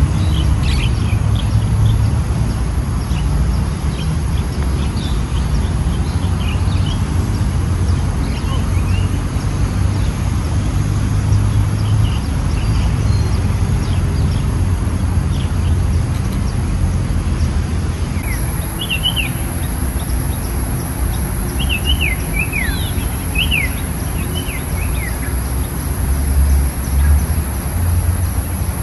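Birds chirping in short gliding calls, scattered at first and more frequent from about two-thirds of the way in, over a steady low rumble.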